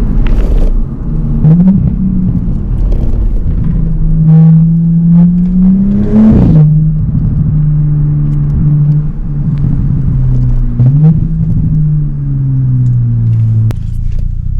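Straight-piped exhaust of an Audi B9 S5's V6 while driving: the note climbs under acceleration and drops at gear changes about 1.5, 6 and 11 seconds in, then falls steadily as the car slows near the end. A few sharp pops sit on top, the loudest at the shift around six seconds in.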